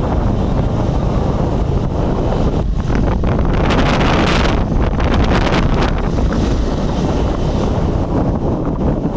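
Wind buffeting the microphone: a steady low rumble, with stronger gusts of hiss about four and five seconds in.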